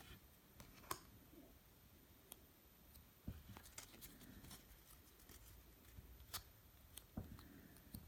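Faint, scattered clicks and light rustling of trading cards and their cardboard and plastic packaging being handled.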